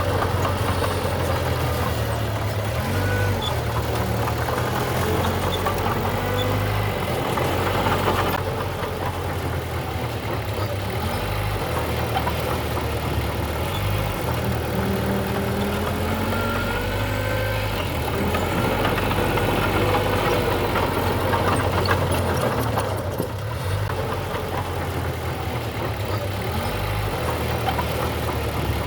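Diesel engine of heavy earthmoving machinery running steadily, its note shifting up and down now and then as the load changes, with faint squealing glides above it.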